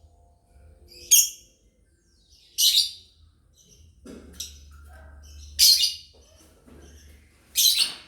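Lovebirds chirping: five loud, short, high-pitched chirps about a second and a half apart, with fainter calls in between.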